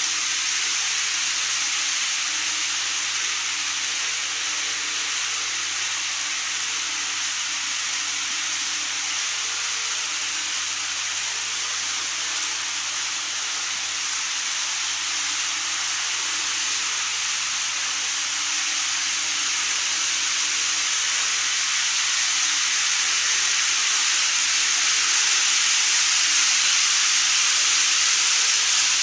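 Model train running on its layout track: a steady, high-pitched rolling hiss of wheels on rails with a faint motor hum underneath, growing louder in the last third as the train comes nearer.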